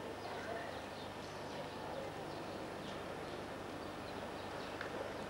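Steady open-air background noise with faint, scattered bird chirps.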